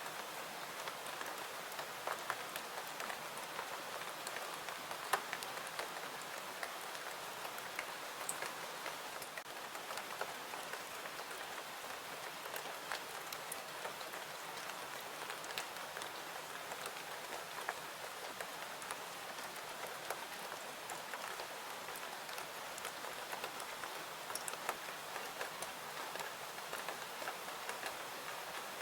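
Steady rain falling, an even hiss scattered with many small sharp ticks and pops.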